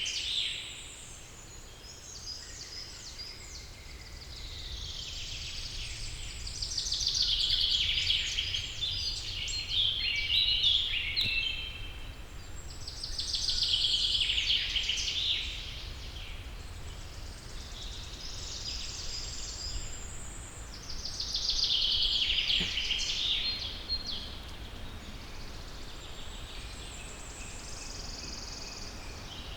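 Forest songbirds singing: phrases of rapid high notes, a few seconds long, come again every several seconds, with quieter song between them over a steady low rumble.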